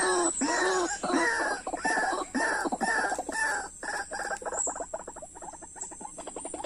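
White-breasted waterhen (dahuk) calling: a run of repeated arched croaking notes, about two or three a second, that speeds up into a quicker, fainter stutter from about halfway through.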